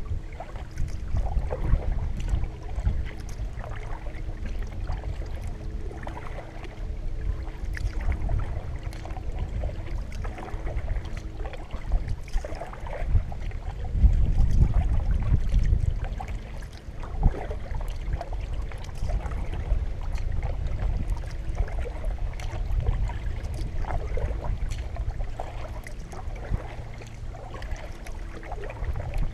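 Gusty wind rumbling on the microphone over water splashing and dripping from double-bladed paddle strokes as a solo canoe is paddled along. A stronger gust comes about halfway through.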